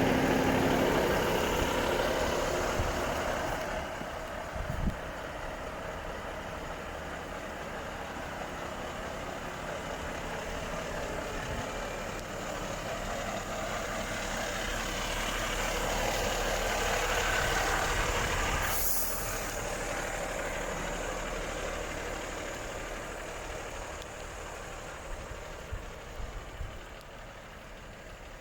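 Volvo FH 460 truck's six-cylinder diesel running, louder at the start and swelling again past the middle. About 19 s in there is a short hiss of released air from the air brakes.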